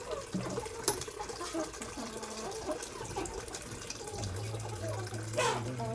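Water running, with chickens clucking faintly. A low steady hum starts about four seconds in.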